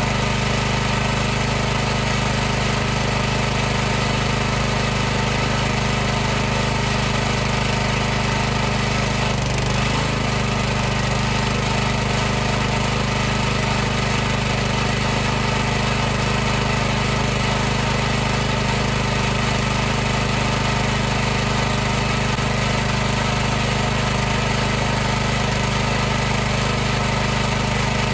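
High-pressure washer running steadily, its pump and motor giving a loud, constant hum with a slight wobble in pitch about ten seconds in.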